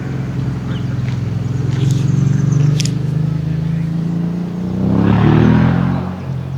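A motor vehicle's engine running close by as a steady low hum, then revving up with rising pitch and growing louder about five seconds in before easing off.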